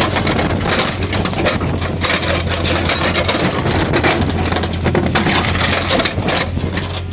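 Backhoe's diesel engine running steadily under load, with dense crackling and scraping as the multi-ripper attachment tears through the ground.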